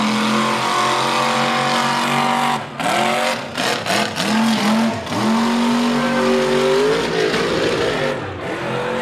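Mega truck's engine revving hard under full throttle, with a sudden drop and several quick throttle blips a few seconds in, then held high again before easing off near the end.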